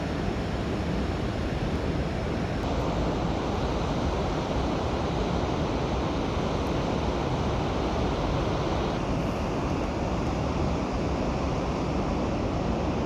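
Steady rushing outdoor noise, heaviest in the low end, with no distinct events; its tone changes abruptly about two and a half seconds in and again near nine seconds.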